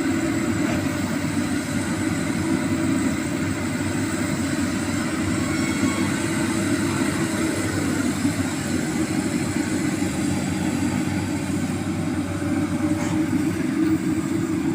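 Excavator's diesel engine running steadily, a continuous low hum that stays at an even level throughout.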